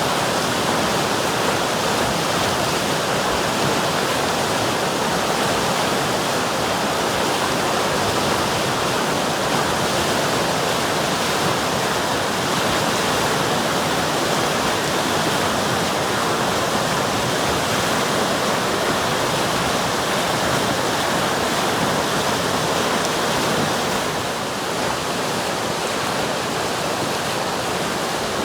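River water rushing and splashing in a steady, even flow, dipping slightly in level near the end.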